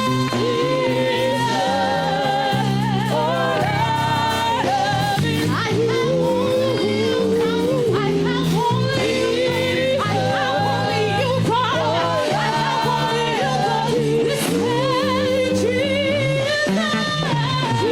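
Gospel worship music: singing that glides and wavers with vibrato over steady sustained chords.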